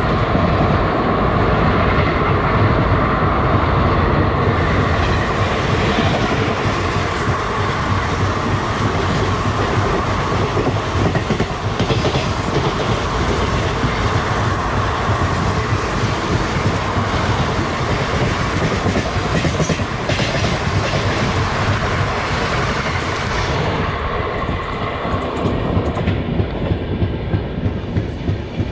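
Kalka Mail's passenger coaches rushing past on the next track as it overtakes, heard from the doorway of a moving train, with the steady rumble and clatter of wheels on rail joints. About 24 s in the last coach clears and the rushing hiss drops away, leaving the filming train's own wheels clacking in a regular rhythm.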